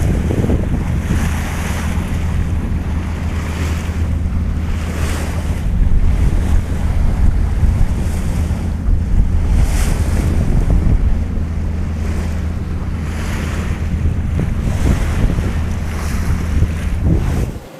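Wind buffeting the microphone over water rushing and splashing along a sailboat's hull underway, with the wash swelling every few seconds. A steady low hum runs underneath.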